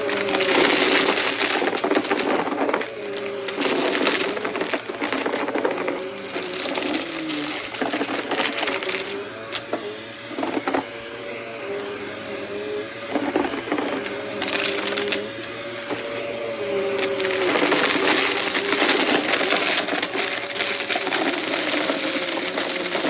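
Vacuum cleaner running with a steady, slightly wavering motor hum while sucking up crunchy debris, which crackles and rattles through the nozzle with sharp clicks and louder spells.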